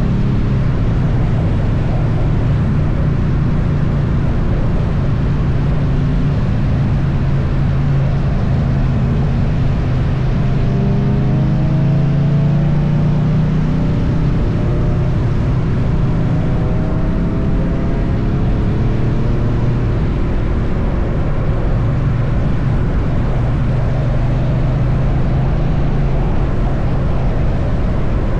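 Triumph Bonneville T100's parallel-twin engine running steadily at highway cruising speed, mixed with heavy wind and road noise. A few faint rising tones come in about halfway through.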